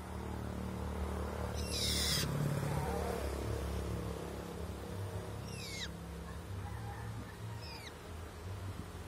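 Long-tailed shrike (cendet) calling: one harsh, scratchy call about two seconds in, then two short notes that sweep quickly downward, over a steady low rumble.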